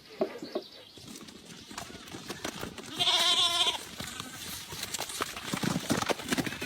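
One loud, wavering bleat lasting under a second, about three seconds in, with scattered small knocks and rustles around it.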